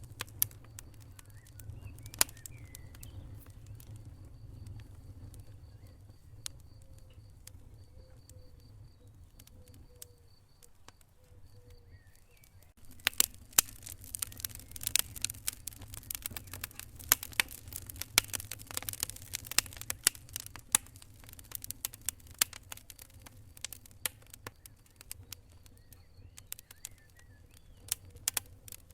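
Wood fire crackling and popping in a fireplace, with a steady low rumble of the flames. The pops are sparse at first, then come thick and fast from about halfway in, thinning out again near the end.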